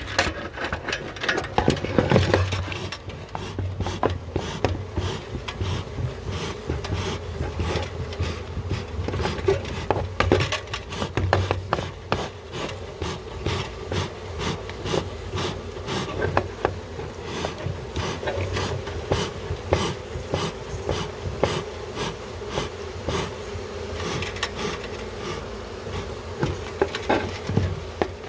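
Honey bee swarm buzzing steadily, with frequent scraping, rubbing and knocking sounds from hands-on work among the bees.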